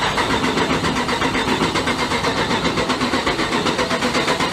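Dodge Ram 1500 Hemi V8 being cranked by its starter motor without firing, in a steady, even rhythmic chug. The throttle pedal is floored, which cuts the fuel, so the engine turns over to build oil pressure before it is allowed to start.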